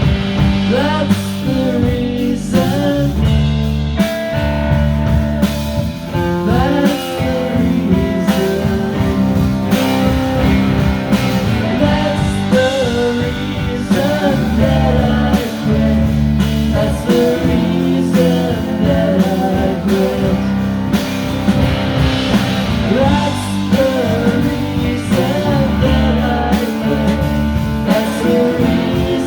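Rock band playing live, an instrumental break with a lead guitar line sliding between notes over steady guitar chords.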